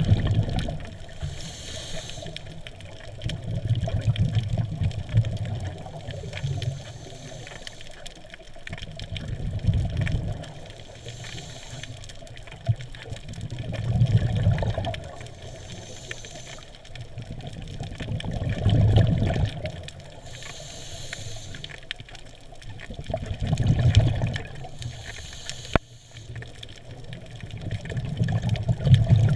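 Scuba diver breathing underwater, heard through the water. Each breath is a short hiss from the regulator on the inhale, then a low bubbling rumble of exhaled bubbles, repeating steadily about every five seconds.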